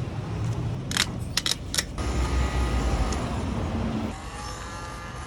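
Road traffic: a motor vehicle going by with a low rumble that is heaviest about two to four seconds in and fades after about four seconds. A few sharp clicks come between about one and two seconds in.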